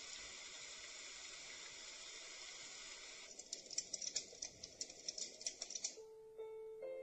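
A portable white-noise machine playing its soothing sounds through its small speaker. First comes a steady hiss. About three seconds in, a crackling track with many sharp irregular clicks takes over. Near the end it switches to a simple tinkling lullaby melody.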